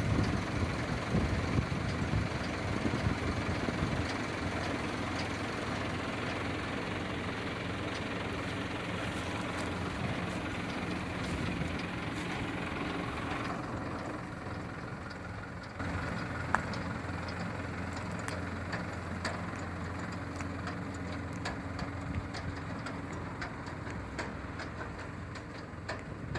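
A vehicle engine idling steadily, its sound shifting a little about halfway through, with one sharp click a few seconds later.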